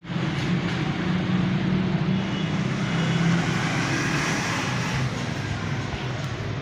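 Honda CD 100 single-cylinder four-stroke engine running steadily with the engine noise that is the problem to be fixed, typical of a noisy timing chain.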